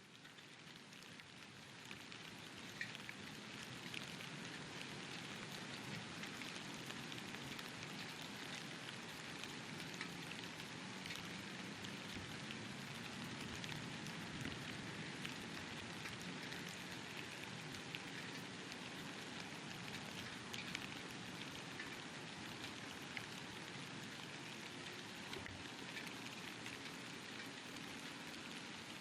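Steady rain falling during a thunderstorm, a continuous hiss with many individual drops ticking close by, fading in over the first few seconds. No thunder is heard.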